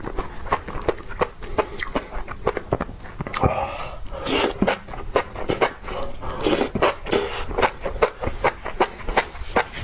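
Close-up chewing of spicy enoki mushrooms: a fast, uneven run of wet mouth clicks, with a few longer breathy sounds about a third of the way in and again past the middle.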